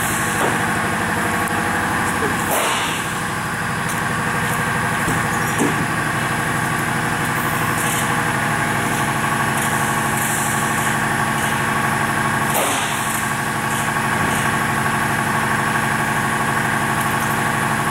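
Heavy diesel truck engine idling steadily, with two short knocks about two and a half seconds in and again near twelve and a half seconds.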